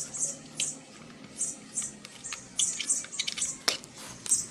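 Light clicks and taps of hand tools working at the engine side cover of a motorized bicycle, a sharper click about two thirds of the way through, among short high chirps recurring about twice a second.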